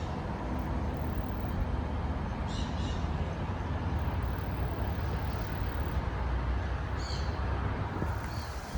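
Wind blowing across the microphone outdoors: a steady, fluctuating low rumble with a hiss over it, and two brief faint high sounds partway through.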